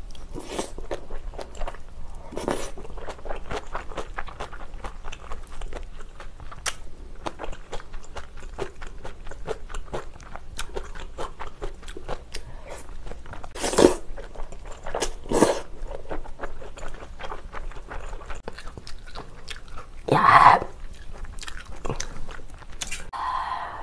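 Close-miked chewing and crunching of food from a bowl of spicy beef soup (yukgaejang) with kimchi. The dense small mouth clicks are broken by a few louder sharp noises about fourteen and fifteen seconds in, and a longer, louder one near twenty seconds.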